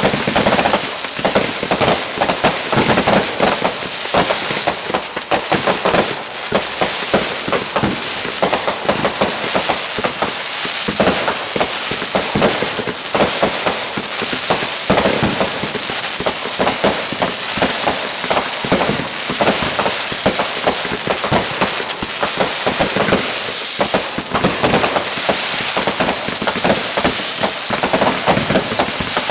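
Fireworks going off in a dense, continuous stream of crackling pops and bangs. Over much of it, a short high whistle falling in pitch repeats about every two-thirds of a second.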